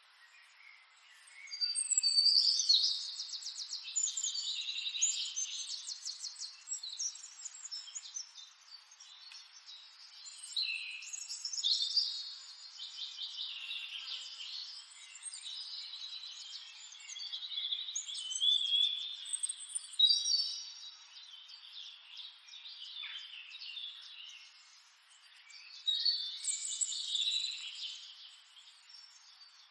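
Songbirds singing and chirping in several bouts of rapid high trills and twitters, over a faint steady background hiss.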